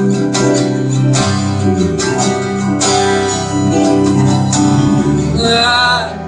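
Live band music with strummed acoustic guitar chords over sustained instrumental notes, in an instrumental passage between sung lines.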